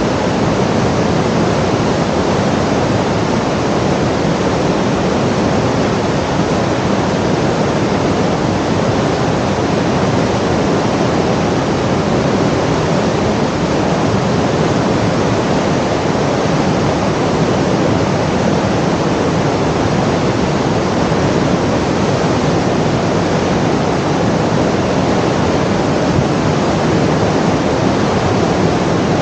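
Steady, loud rushing noise with no change in level and no distinct events.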